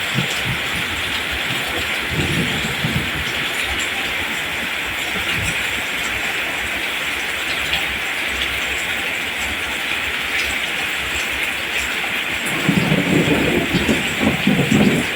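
Steady rain falling as an even hiss, with a patter of heavier drops close by that grows denser and louder about twelve seconds in.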